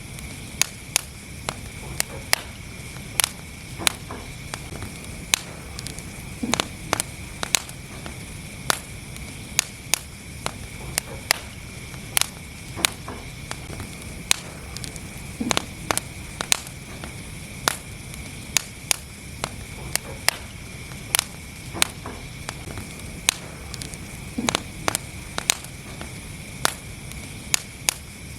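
Wood fire in a fireplace crackling: sharp, irregular pops and snaps, about one or two a second, over a steady low noise from the burning logs.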